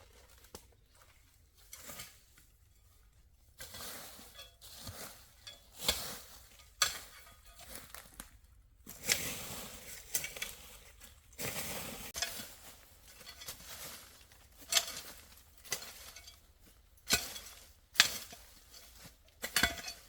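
Irregular clinks and knocks of objects being handled, with a few short stretches of rustling noise.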